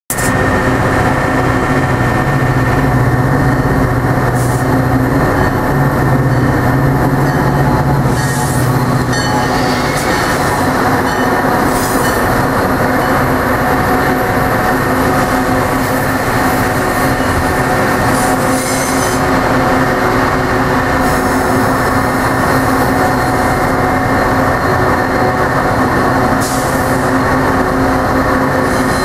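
Metra F40PH diesel locomotive and its commuter coaches rolling slowly past close by: a loud, steady engine drone with held tones, the deepest hum strongest in the first several seconds. Wheels squeal and click now and then as the cars work through the tight switches of the station throat.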